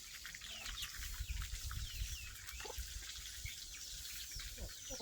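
Birds chirping: many short, high chirps, most falling in pitch, coming in quick succession over a low rumble.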